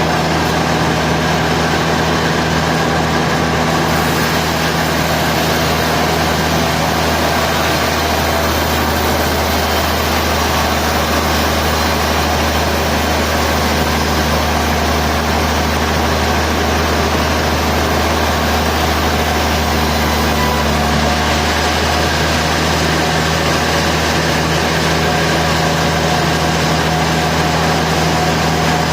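Sawmill machinery running steadily: a low engine drone under a constant whirring noise, with no distinct impacts or pauses.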